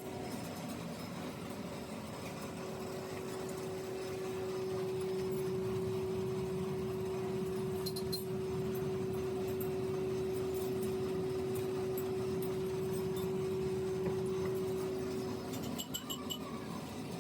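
An electric workshop machine motor running with a steady hum, with a few light metal clinks about halfway through and near the end.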